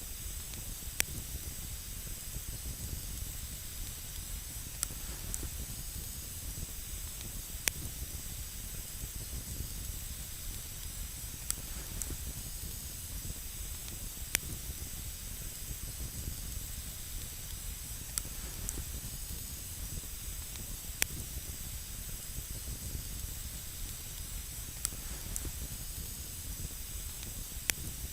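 Campfire burning on snow: a steady hiss with a low rumble under it, broken by sharp, single wood crackles every few seconds.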